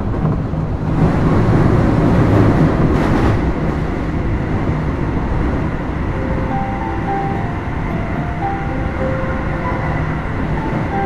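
Running sound inside a Keio Series 5000 (2nd generation) electric train car: a steady rumble of wheels on rail that grows louder for a couple of seconds about a second in. From about halfway, faint high steady tones change pitch in steps.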